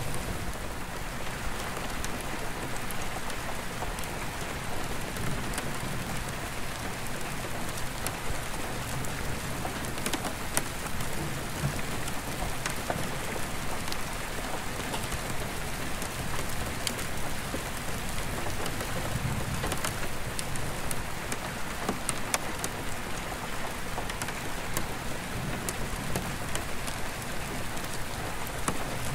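Steady rain pattering on an attic roof skylight, with many small drop ticks on the glass. Low rumbles of distant thunder swell and fade several times underneath.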